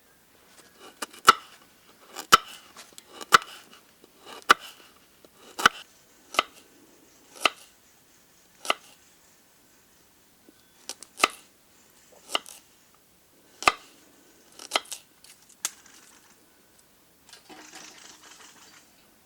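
A blade chopping: about a dozen sharp strokes roughly a second apart, with a pause near the middle, then a short scraping sound near the end.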